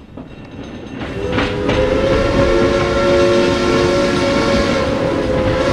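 Train arriving: a rumbling, rushing noise that grows louder over the first two seconds, with a horn sounding several notes at once from about two seconds in until near the end. It is a train sound effect rather than a train at hand.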